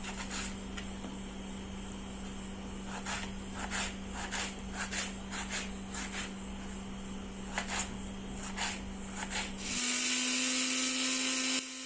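A steady hum with a string of light clicks and taps, as of utensils handled in a kitchen. About ten seconds in, the hum rises in pitch and a louder hissing rush comes in for under two seconds, then stops.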